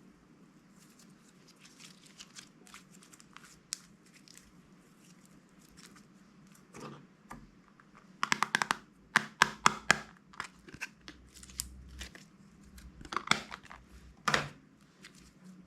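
Crunchy slime being squeezed and worked by hand: sparse small crackles at first, then a dense run of sharp crackling pops about halfway through and another burst near the end.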